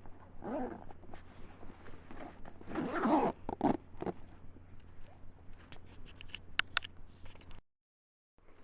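Rustling and zipping of a pack as a bag is stowed away, loudest about three seconds in, followed by a run of sharp clicks. The sound cuts out to dead silence shortly before the end.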